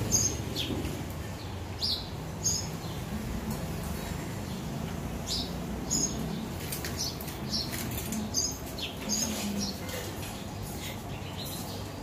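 Small birds chirping: a short, high two-part call repeats every two to three seconds.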